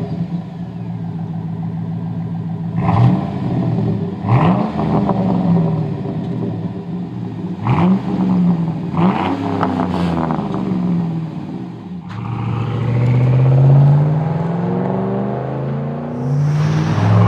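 GM 5.3L V8 running through a Flowmaster Outlaw cat-back exhaust with a Super 10 Series muffler, idling with five quick throttle blips. About twelve seconds in, the truck accelerates hard, and the pitch drops back once at a gear change before climbing again.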